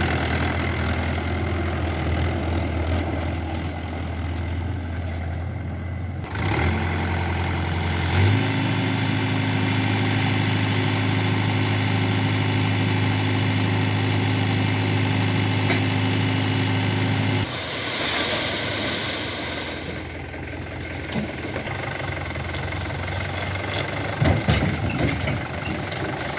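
Heavy diesel machine engine running steadily. About eight seconds in it steps up to a higher, steady drone, and drops back near seventeen seconds. A few knocks come near the end.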